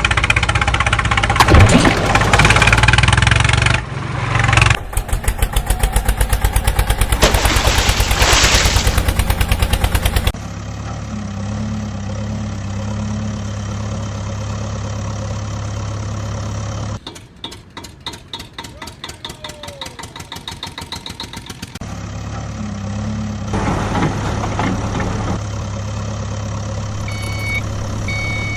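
Heavy vehicle engine: a loud noisy stretch, then a fast even chugging as it starts, settling into a steady low idle that sputters for a few seconds before idling again. Short evenly spaced reversing beeps come in near the end.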